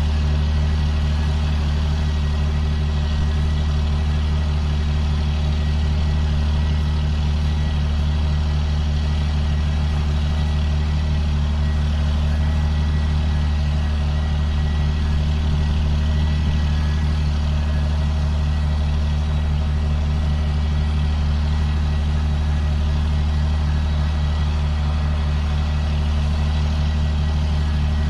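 2005 John Deere sprayer's diesel engine running steadily under a constant load, a deep even drone with no change in speed.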